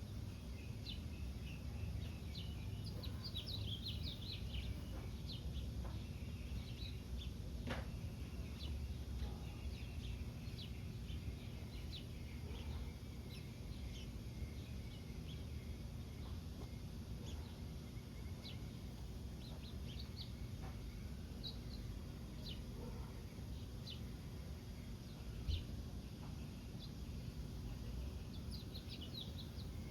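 Small birds chirping in short high notes scattered throughout, over a steady low rumble, with one brief low bump about 25 seconds in.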